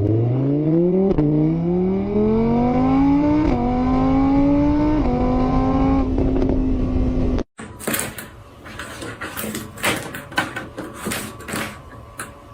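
An engine accelerating: its pitch climbs, drops briefly and climbs again three times, as with gear changes, then holds steady and cuts off suddenly about seven seconds in. After that come scattered quieter clicks and knocks.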